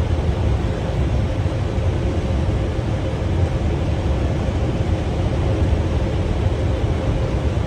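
Steady cockpit noise of an Airbus airliner on final approach: a low rumble of airflow and engines with a faint steady tone above it.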